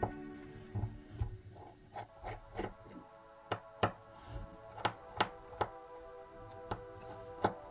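Background music over a scattering of sharp clicks and light taps of small repair tools against the phone as it is worked on.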